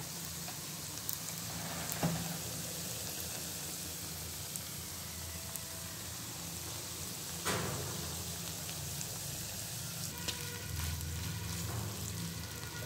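Goat tripe frying in oil in a pan, a steady sizzle; the water has cooked off and the pieces are frying dark. A few sharp spatula knocks and scrapes against the pan come through the sizzle.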